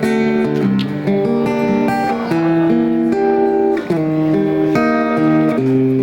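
Acoustic guitar playing on its own, strummed and picked chords changing about every second with no voice over it.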